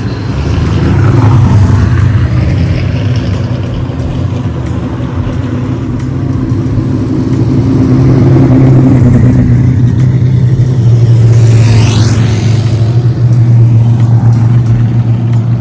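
Loud car engine exhaust rumble, swelling as the engines rev or pass about a second in and again from about eight to twelve seconds.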